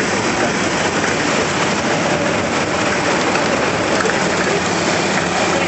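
A long procession of motorcycles riding past, their engines blending into one steady, dense wash of noise.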